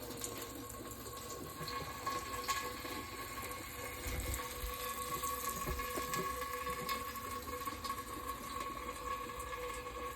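Coolant running out of a car's open radiator drain plug, a steady splashing pour, over a steady hum.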